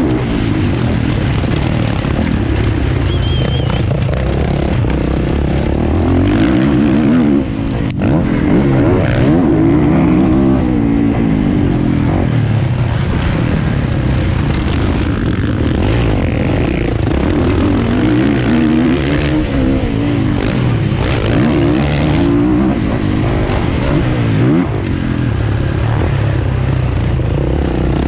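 450cc motocross bike engine revving hard, its pitch rising and falling again and again with throttle and gear changes.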